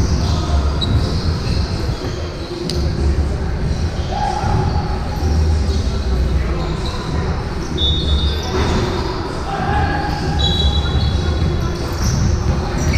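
Basketball game on an indoor court: the ball bouncing, sneakers squeaking several times in short high squeaks, and players' voices.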